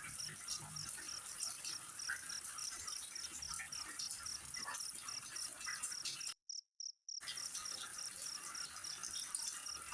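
An insect chirping steadily, about four to five chirps a second, over a faint even hiss. The sound cuts out completely for about a second past the middle, then resumes.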